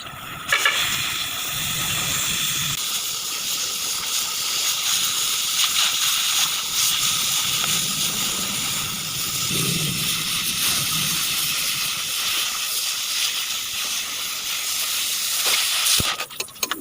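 Oxy-fuel cutting torch hissing steadily as it cuts through steel plate.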